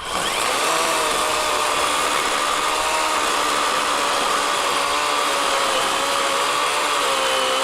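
Worx 40-volt electric chainsaw running under load, cutting into a fallen log. Its battery is nearly dead, and the steady motor whine sags slightly in pitch over the cut.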